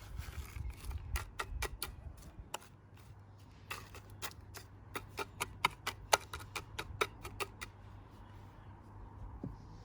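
Irregular sharp taps and clicks of a hard tool or object on the bird bath as the cement repair is worked, over a low steady hum.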